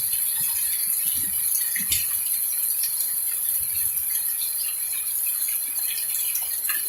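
Rain falling steadily as a hiss, with scattered sharp ticks of raindrops striking hard surfaces.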